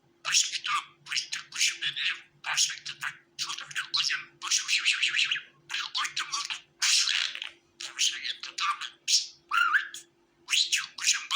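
Budgerigar warbling and chirping in quick, chattering phrases with short pauses between them, over a faint steady hum.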